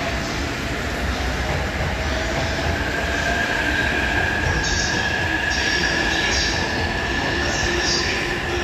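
Electric commuter train moving through a station, its wheels squealing on the rails. A steady high-pitched squeal sets in about three seconds in, with short sharper squeals over it near the end.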